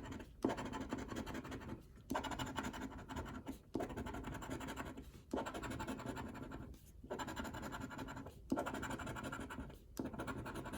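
Scratch-off lottery ticket being scraped, its coating rubbed away in a series of strokes about a second and a half each with brief pauses between them.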